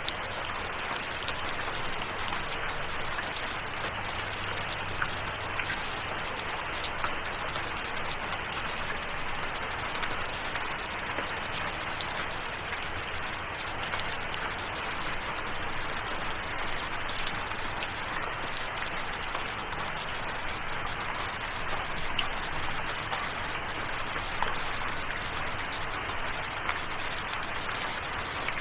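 Steady rainfall: an even hiss of rain with scattered sharper ticks of individual drops landing.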